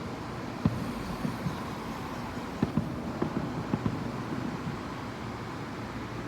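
Distant fireworks heard through a window: scattered short pops and thuds, the sharpest just under a second in and a cluster between about two and a half and four seconds, over a steady background rumble.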